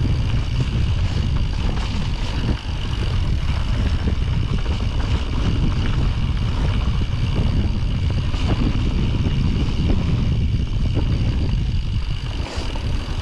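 Mountain bike descending a snowy trail at speed: wind rushing over the action-camera microphone, with tyre rumble and small rattles and ticks from the bike over the rough ground.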